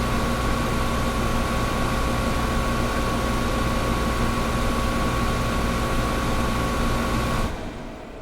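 Air conditioner running with a steady rush of air and a constant hum and whine; about seven and a half seconds in, the hum cuts off suddenly and only a softer hiss remains.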